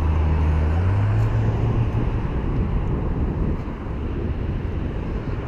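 Wind and road rumble on an action camera's microphone during a mountain-bike ride along city streets, with a motor vehicle's low engine hum that rises in pitch about a second in and fades out by about two seconds in.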